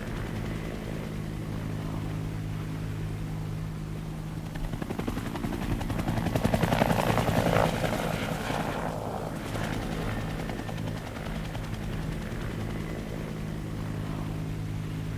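Firefighting helicopter's rotors beating steadily, swelling louder for a few seconds in the middle as it passes close, then easing back.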